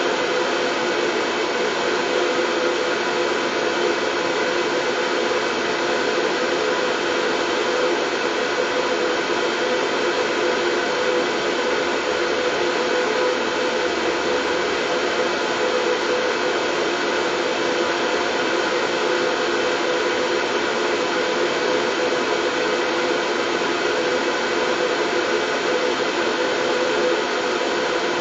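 Steady, unchanging white noise, a full whooshing hiss with a faint steady hum running through it, as used to lull babies to sleep.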